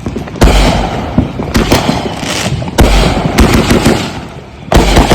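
Consumer aerial firework cake going off: loud shell bursts with deep booms about half a second in, near the three-second mark and near the end, with smaller cracks and crackling between them.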